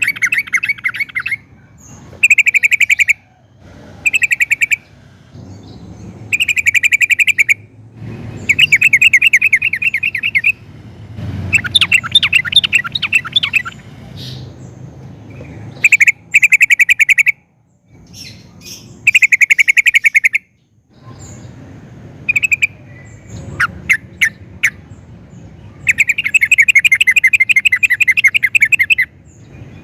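Yellow-vented bulbul (trucukan) singing: repeated loud bursts of rapid bubbling chatter, each phrase one to three seconds long with short pauses between.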